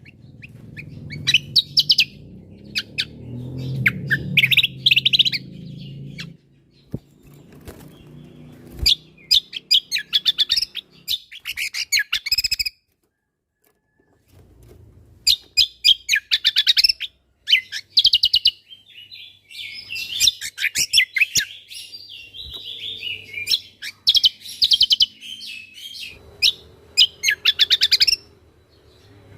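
Cucak kombo (kecial kombo) singing bursts of rapid, high, chattering chirps and trills, with a short pause about halfway through.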